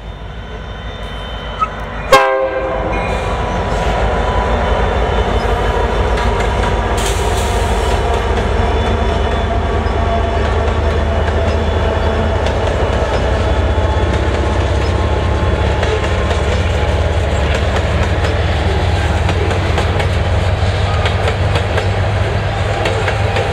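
Loaded freight train passing close by: the locomotive consist, led by a Union Pacific EMD SD9043MAC diesel-electric, gives a steady low rumble, with a horn sounding. Loaded covered hopper cars then roll past, their wheels clicking over the rail joints. A single sharp bang comes about two seconds in.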